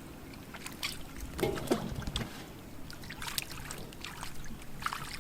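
Water splashing and trickling in irregular small bursts, with a brief voice sound about a second and a half in.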